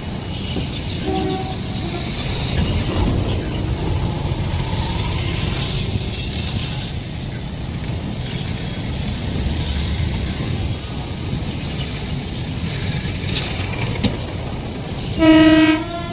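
Train running with a steady rumble, then a short, loud train horn blast near the end. A faint brief toot sounds about a second in.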